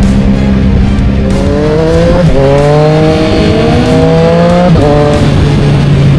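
Motorcycle engine accelerating up through the gears. The revs climb, drop sharply at a gearshift about two seconds in and again near five seconds, then settle into a steadier note.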